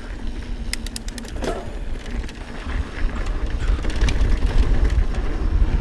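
Mountain bike rolling fast over dry dirt singletrack: tyre and trail noise with wind rumble on the bike-mounted action camera, growing louder partway through, with a quick run of sharp clicks and rattles about a second in.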